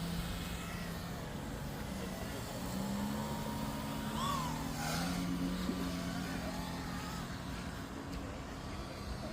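Electric motor and propeller of a giant RC foam Piper Cub model in flight, a steady hum whose pitch rises about two and a half seconds in and again around five seconds as the throttle changes.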